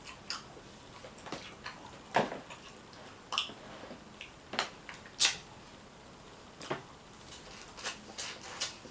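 Close-up eating sounds from a seafood boil: irregular wet smacks, clicks and crackles of shellfish being pulled apart and eaten, about a dozen, the loudest a little past two and five seconds in.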